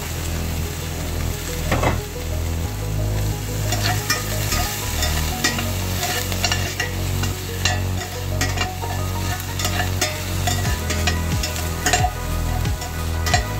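Diced onion and garlic sizzling as they sauté in oil in a stainless steel pan, while a spatula stirs them, scraping and clicking against the pan many times.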